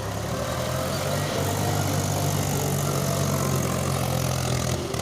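Truck engine running steadily under load, building up over the first second or so, with a rushing noise over it, and dropping off just before the end.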